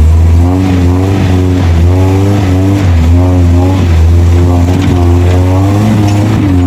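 Off-road 4x4's engine working under load, its revs rising and falling about once a second while the driver tries to get the vehicle through an obstacle.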